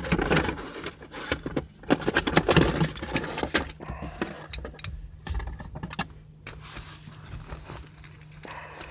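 A bunch of keys jangling, with many quick metallic clicks and clinks as the key is handled at the car's ignition, busiest in the first few seconds and thinning out after.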